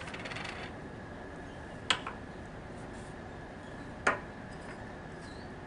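Two sharp clacks about two seconds apart, hard plastic valve parts being set down or knocked against each other, with a few faint ticks of handling near the start.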